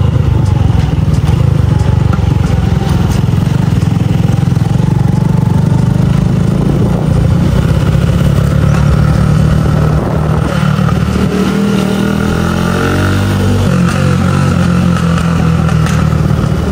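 Motorcycle engine running while riding, heard from the rider's seat. About two thirds of the way in, the engine note drops and then climbs again.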